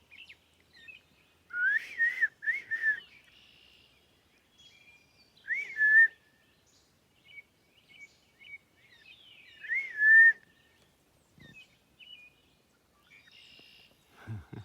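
Loud, clear whistles in three groups, each a few notes that slide up and then hold, about two, six and ten seconds in. Fainter bird chirps run underneath throughout.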